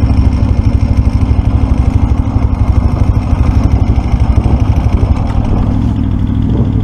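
Motorcycle engine running with a loud, evenly pulsing low beat that becomes smoother about five seconds in.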